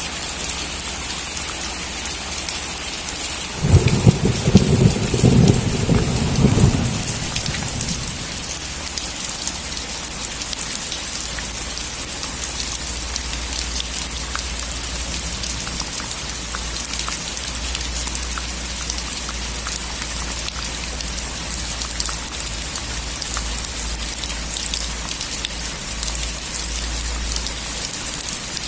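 Heavy rain pattering steadily on a metal roof, with one loud roll of thunder about four seconds in that rumbles for around three seconds.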